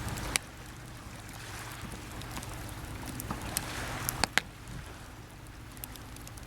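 Wood campfire crackling, with a handful of sharp pops, the loudest just after the start and a pair about four seconds in, over the steady wash of calm sea waves on the shore.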